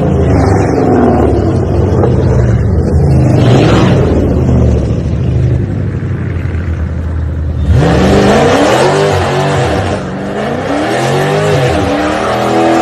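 A car engine runs hard, then from about eight seconds in is revved up and down several times, its pitch rising and falling in quick swells.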